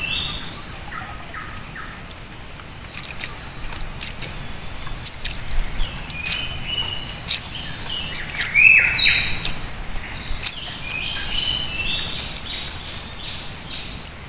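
Wild birds calling in short stepped whistled phrases, loudest about nine seconds in, over a steady high-pitched whine, with scattered sharp ticks.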